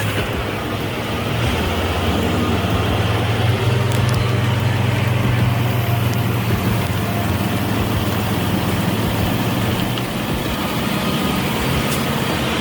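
A heavy diesel engine running steadily, a low drone with a constant noisy rumble over it, a little louder after about a second and a half.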